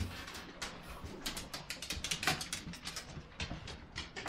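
Pet dogs making excited greeting noises: a quick, irregular run of short sounds.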